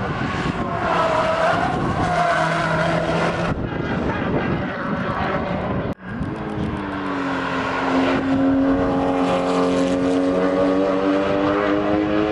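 Performance car engines running and accelerating past. After an abrupt cut midway, one engine's note climbs slightly for a couple of seconds and then holds steady.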